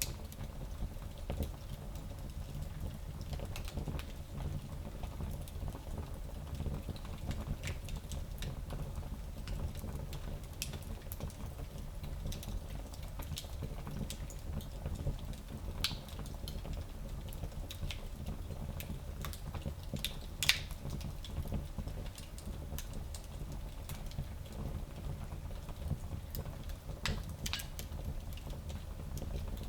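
Wood fire crackling in a small fireplace: irregular small pops and snaps over a steady low rumble, with one sharper pop about twenty seconds in.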